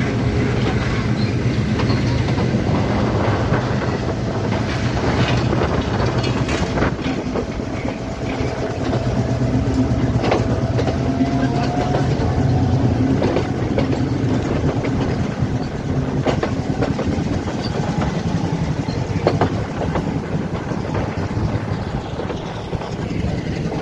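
Passenger train running along the track, heard from inside a carriage: a steady rumble of wheels on rails with scattered sharp clacks over the rail joints. A faint thin whine rises briefly for several seconds around the middle.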